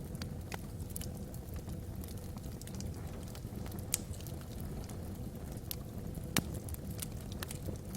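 Wood logs burning in a fireplace: irregular sharp crackles and pops, the loudest about four seconds in and again a little past six seconds, over a low steady rumble.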